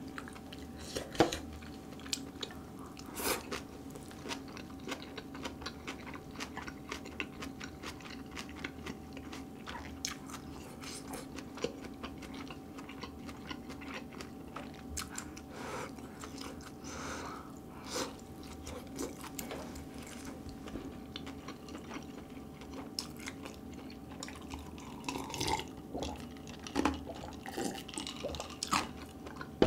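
Close-miked chewing of kimchi and seasoned grilled duck ribs: a steady run of small wet clicks and crunches over a faint steady hum, growing busier near the end.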